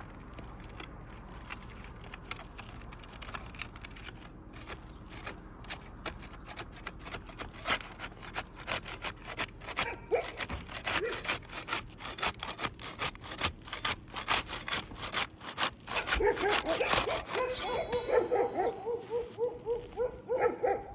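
A metal roofing scraper is worked repeatedly under asphalt shingles to break their tar seals: a rapid run of scraping strokes that grows louder after the first several seconds. In the last few seconds a pitched squealing sound joins the scraping.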